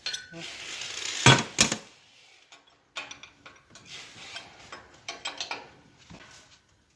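Metal hand tools working on a pipe fitting: two sharp metallic knocks about a second in, then a run of small clicks and scrapes, as a leaking fire-water fitting is taken apart to fit new washers.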